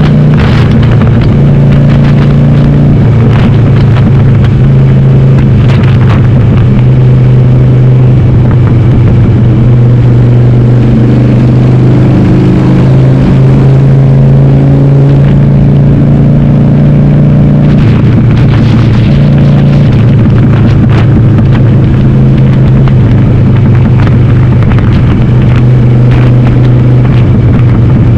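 Harley-Davidson Sportster 883R's air-cooled V-twin, upgraded to 1200, running loud under way through Cobra Speedster 909 pipes with the dB killers removed. Its note shifts up and down in steps several times with throttle and gear changes.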